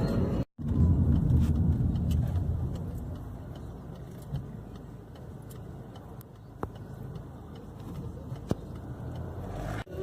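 Car road and engine noise heard from inside the cabin: a low rumble, loudest for the first couple of seconds, then easing to a quieter steady drone with a few faint clicks.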